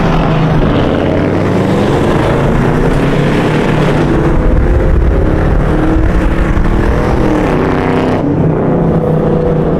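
Car engines running and revving in traffic, heard from inside a moving car. Their pitch rises and falls, with a clear rise in revs about seven seconds in.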